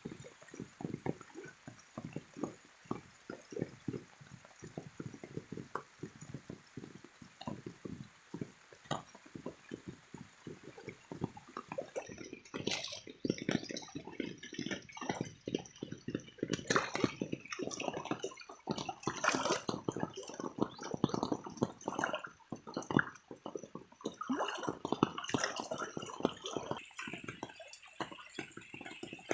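Rain falling as many irregular drips and splashes, sparse at first and growing denser and brighter a little under halfway through.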